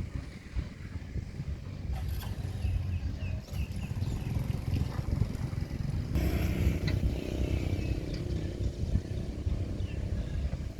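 Diesel engine of heavy earthmoving machinery running with a low rumble. About six seconds in it gets louder and a steady higher hum joins, as if the machine is put under load. A few short high chirps come about three seconds in.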